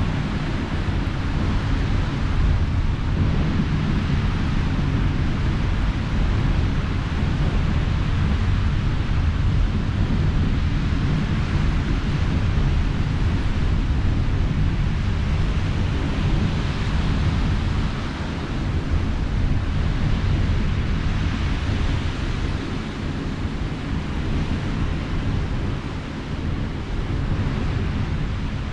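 Sea waves washing on the shore, a steady noise that swells and eases slowly, with wind rumbling on the microphone.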